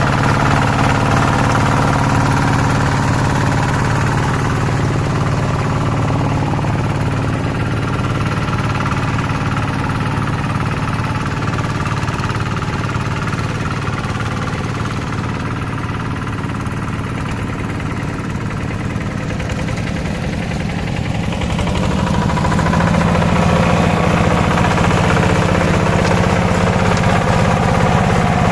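Hand tractor engine running steadily, getting somewhat quieter through the middle and louder again about three-quarters of the way through.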